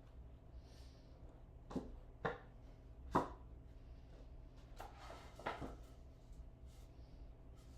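About five light, separate knocks and taps, the one about three seconds in the sharpest, over a faint steady hum.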